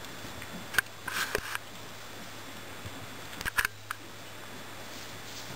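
A few sharp clicks and short scuffing noises, about a second in and again at about three and a half seconds, over a steady low hum.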